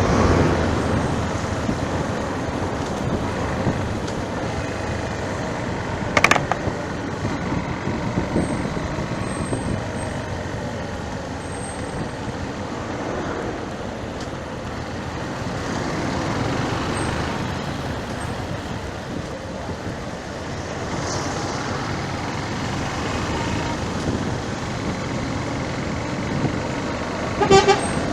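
Steady road traffic noise from passing vehicles, with a sharp knock about six seconds in and a short vehicle horn toot near the end.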